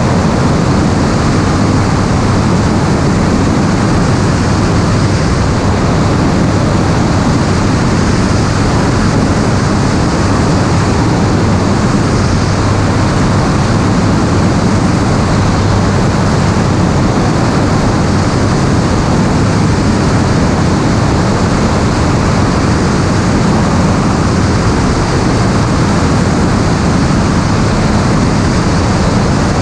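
Steady, loud noise of an aircraft in flight: engine and rushing air as heard from aboard.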